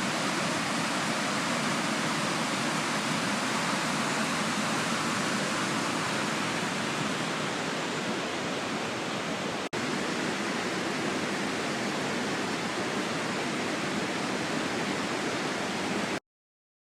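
Waterfall's steady rushing roar of falling water, broken by a split-second gap about ten seconds in and cutting off suddenly near the end.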